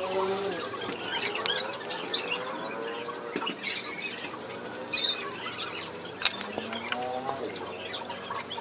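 Birds chirping and calling repeatedly, with a single sharp click about six seconds in.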